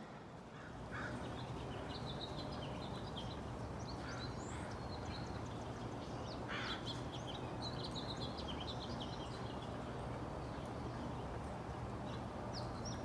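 Wild songbirds chirping, many short high calls scattered throughout, over a steady low background rumble.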